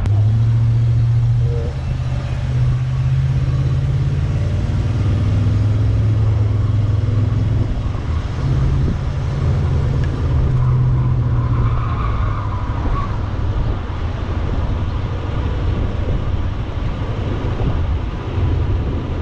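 The 1968 Buick Skylark convertible's engine running under way with road noise, heard from inside the car; the engine note rises and falls several times with the revs.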